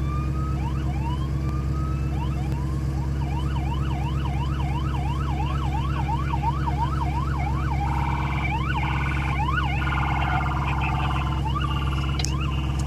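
Emergency vehicle electronic siren running in wail, slow rising sweeps, then switching to a fast yelp of about three sweeps a second. Around eight seconds in, a denser siren sound overlaps the yelp for a few seconds before the yelp carries on alone. A steady low drone of engine and road noise runs underneath.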